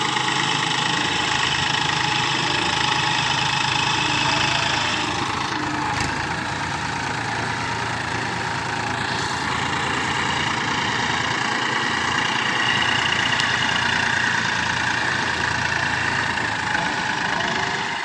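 TAFE 241 DI tractor's three-cylinder diesel engine running steadily.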